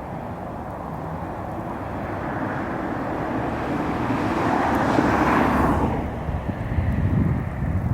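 A vehicle driving past, its noise swelling to a peak about five seconds in and then falling away, over a steady low rumble and wind on the microphone.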